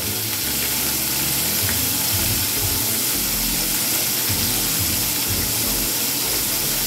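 Flour-dredged jumbo shrimp frying in hot oil in a saucepan, a steady sizzle.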